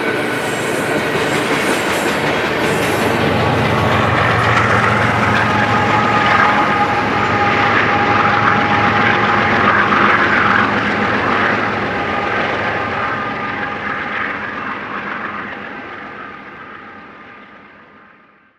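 BNSF freight train of tank cars rolling past, steel wheels clattering on the rails with a thin steady whine over the rumble. Its diesel locomotives at the rear of the train go by, then the sound fades steadily as the train draws away, until it cuts off at the end.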